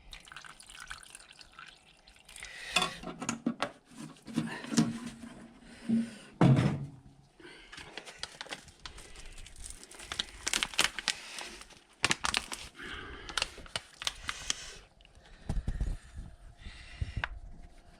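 Irregular clinks, knocks and rustles of paint-mixing containers and lids being handled while black basecoat is mixed with fresh metal flake, with a few louder knocks in the first half.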